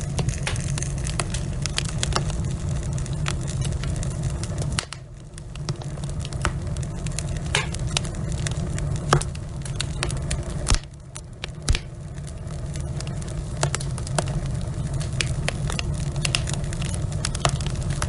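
Wood fire burning in a fireplace, logs crackling and popping constantly over a steady low rumble of the flames. The sound drops away briefly about five seconds in and again about eleven seconds in, with a couple of louder pops around nine and eleven seconds.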